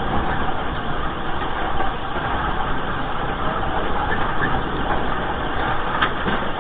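Steady loud rumbling noise of earthquake shaking, with one sharp knock about six seconds in.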